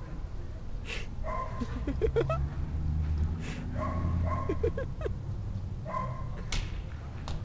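A dog whimpering and yipping in short cries, three spells of them, over a low rumble, with a few sharp cracks.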